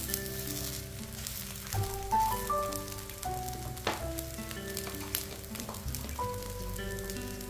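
Tempe, anchovies and chillies sizzling and crackling as they fry in a little oil in a wok, with a spatula stirring them at first. Background music with held melody notes plays throughout.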